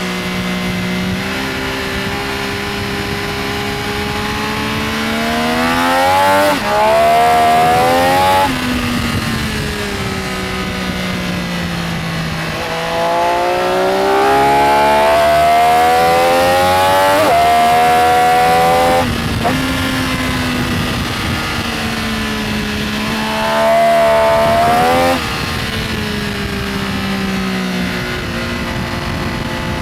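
Benelli Tornado Tre 900's inline three-cylinder engine being ridden hard on track, with three bursts of acceleration where the revs climb and step down at the upshifts, each ending with the throttle shut off abruptly. Between them the engine runs at a lower, steadier pitch.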